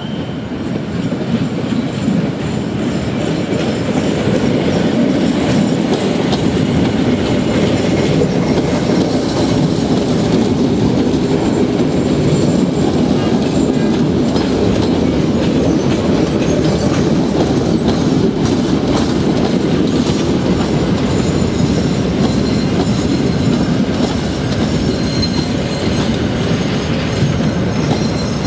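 A train rolling along the station track: a heavy rumble with wheels clattering over the rail joints, growing louder over the first few seconds and then running steadily.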